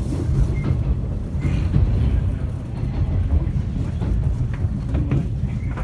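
Inside a JNR 455-series express-type electric train car while it runs: a steady low rumble of the wheels and running gear on the track.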